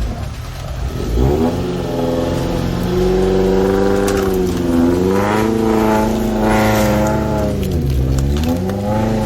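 4x4 off-road vehicle's engine revving: its pitch climbs about a second in, holds high, then drops and climbs again twice.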